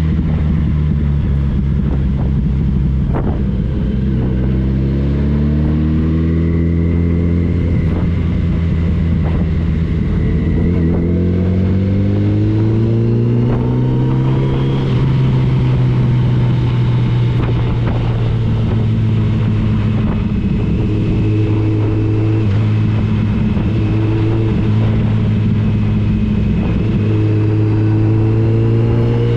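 Motorcycle engine under way with wind rush; its pitch climbs twice in the first half as it accelerates, then holds steady at a cruise with small dips.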